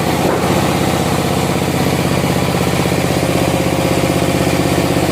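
Engine idling steadily, with a fast, even pulse to its beat.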